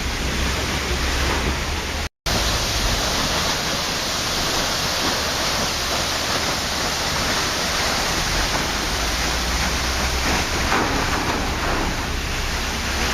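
Waterfall: a steady rush of falling water. It cuts out to silence for a split second about two seconds in, then resumes slightly brighter.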